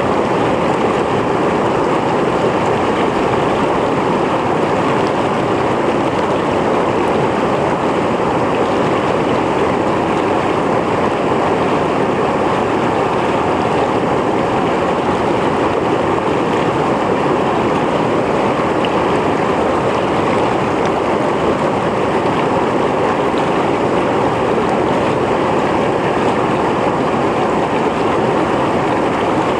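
Mountain stream flowing over rocks: a steady, loud rush of water that does not change.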